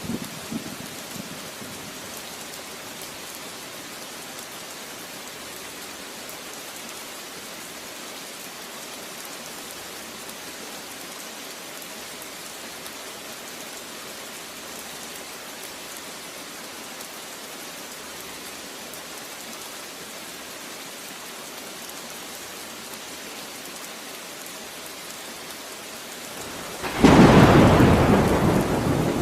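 Steady rain falling, then near the end a sudden loud thunderclap that rumbles on and slowly fades.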